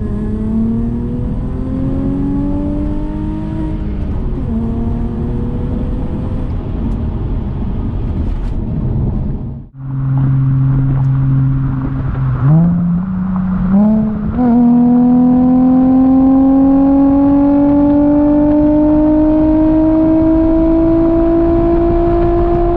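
Audi A4's 3.0 V6 through a custom exhaust, accelerating under load: the engine note climbs, falls back at a gear change about four seconds in, and climbs again. After a brief break near the middle it holds steady for a couple of seconds, then rises through another shift into a long, slowly climbing pull in one gear.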